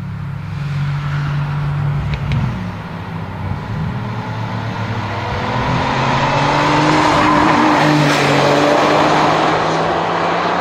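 Bugatti EB110's quad-turbocharged V12 engine running as the car drives, its pitch rising slowly and getting louder in the second half as it picks up speed.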